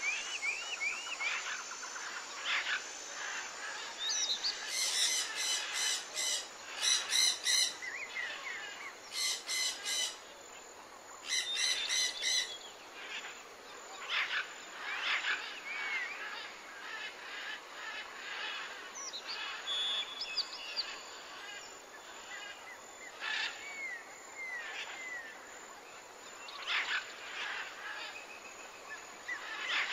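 Several birds chirping and singing, with many short upswept calls and quick repeated phrases that are loudest in the first half, over a faint steady hiss.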